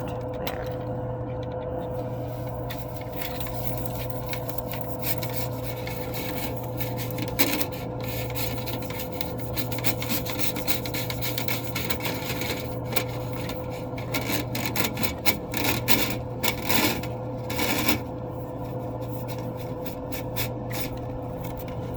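Dryer vent cleaning brush scraping and rubbing inside the dryer vent duct as it is worked through, with irregular scrapes and knocks that get louder and busier from about two-thirds of the way in. A steady hum runs underneath.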